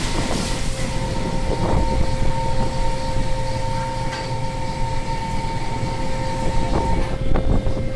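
Steady machinery noise on board a longline fishing boat: a low engine rumble with two steady humming tones over it, the higher tone dropping out near the end.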